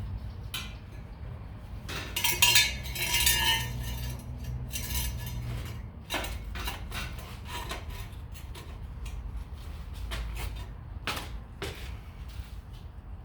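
Small pieces of scrap metal clinking and clattering as they are handled, with a busy rattle about two seconds in and scattered sharp knocks after, over a steady low hum.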